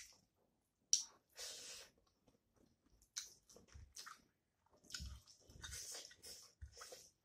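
Close-miked mouth sounds of a person chewing a mouthful of rice and curry: wet smacking and chewing in irregular short bursts.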